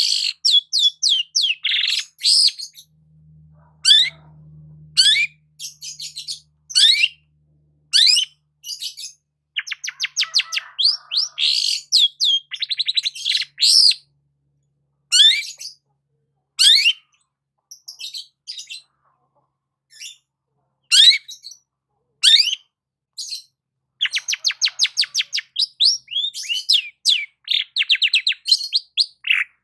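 Long-tailed shrike (cendet) singing: a varied run of sharp downward-sweeping notes, fast trills and chattering phrases, broken by short pauses.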